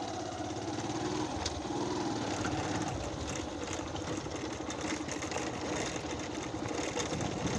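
Small motorcycle engine running steadily with a fast, even firing pulse while the bike rides along a rough gravel track.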